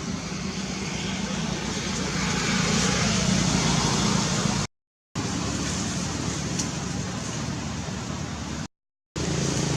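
Steady road-traffic background noise with a low hum. It cuts out abruptly to silence twice, for about half a second each time.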